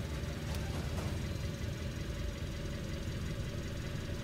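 Car engine idling steadily, a low even rumble, with two faint clicks about half a second and a second in.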